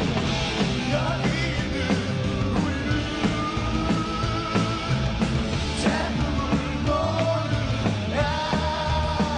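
Rock band playing live: a singer holds long, wavering notes over distorted electric guitar and drums.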